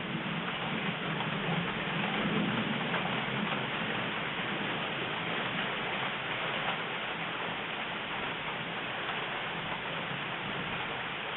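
Steady rain falling during a thunderstorm, a dense hiss with fine pattering drop ticks. A low rumble underneath fades after about three seconds.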